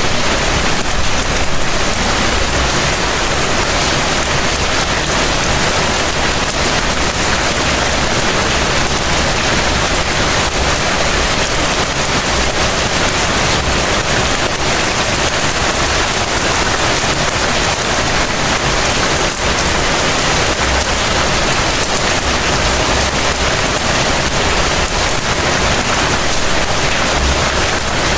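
Heavy rain falling steadily: a dense, even hiss of rain on surfaces with a low rumble underneath.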